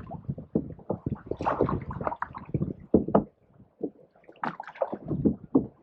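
Canoe paddles dipping and pulling through pond water: irregular splashes and gurgles with a few sharp knocks.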